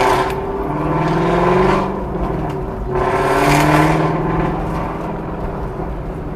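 Car engines revving and accelerating in two rising surges, the first about a second and a half in and the second near four seconds, over a steady engine rumble.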